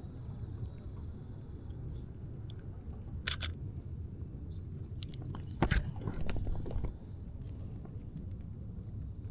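Steady high-pitched chorus of insects chirring without a break, with a couple of sharp clicks about three seconds in and a few knocks and bumps a little past halfway.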